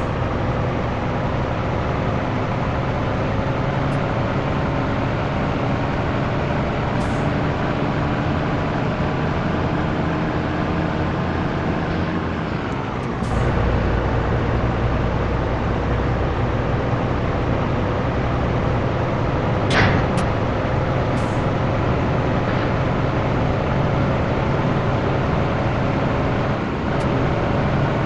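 Scania T113 truck's six-cylinder diesel engine running under load on the road, its pitch slowly rising as it gains speed. About halfway through the pitch drops and the engine comes back louder, as with a gear change, then climbs again; a single sharp click is heard about two-thirds of the way in.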